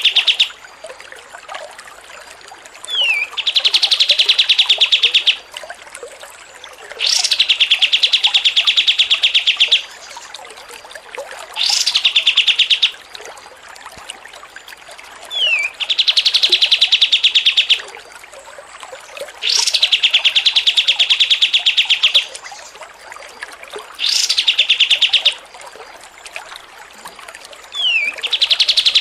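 Songbird singing a repeated pattern: fast, rattling trills about two seconds long alternating with shorter bursts, each long trill opened by a brief falling whistle, the whole phrase recurring every four seconds or so in a very regular cycle.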